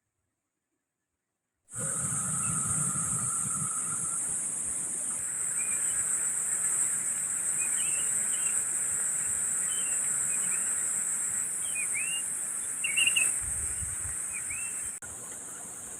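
Insects droning steadily at a high pitch, with brief bird chirps scattered over it. The sound starts suddenly after about two seconds of silence and drops a step in loudness near the end.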